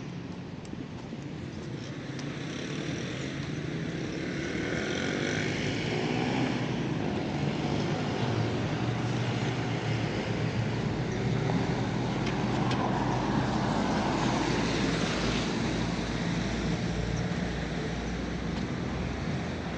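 Street traffic: a car's engine and tyres on the road, growing louder over the first several seconds and easing off a little near the end.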